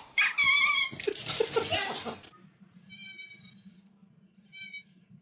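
Animal calls: a loud cry at the start, then two short high-pitched calls about a second and a half apart.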